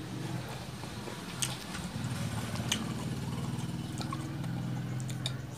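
Close-up chewing of crunchy green mango slices topped with sautéed shrimp paste, with three sharp crunching clicks about a second apart. A steady low drone runs underneath and fades near the end.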